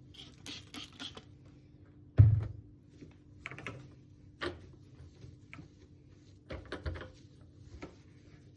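Household handling noises: a scatter of light clicks and knocks, with one loud heavy thump about two seconds in, over a faint steady hum.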